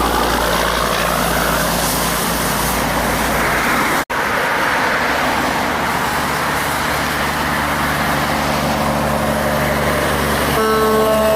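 Heavy trucks passing on a road, with a steady low diesel engine hum and tyre and traffic noise. The sound drops out for an instant about four seconds in, after which the traffic noise carries on. A steady two-note tone starts near the end.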